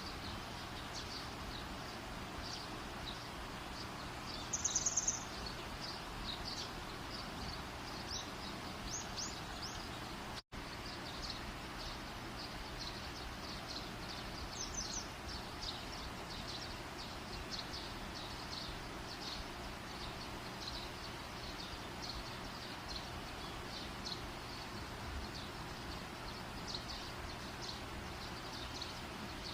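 Outdoor night ambience by a campfire: a steady hiss with repeated high chirps throughout, a brief louder pulsed chirp about five seconds in, and a sudden split-second dropout about ten seconds in.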